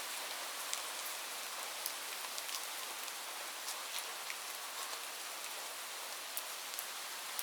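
Light rain falling steadily, with a soft hiss and scattered individual drops ticking on a surface.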